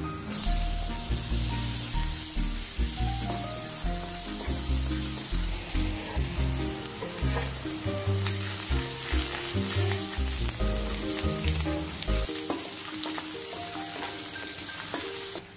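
Chopped garlic and green vegetables sizzling steadily in bubbling fat in a non-stick pan, with chicken pieces stirred through near the end. Background music with low notes plays underneath until about three-quarters of the way through.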